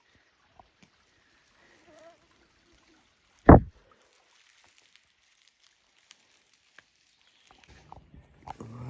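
A single short, loud thump about three and a half seconds in, heavy in the low end, amid otherwise quiet surroundings with a few faint clicks.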